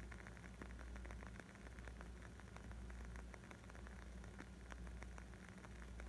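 Wood fire crackling: many small, irregular snaps and pops from the burning wood, quiet, over a steady low rumble.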